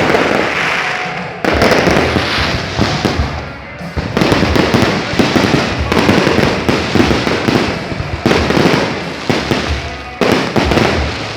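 Aerial fireworks display going off: rapid bangs and dense crackling in waves, with a fresh loud salvo breaking out about a second and a half in, again about four seconds in, and near the end.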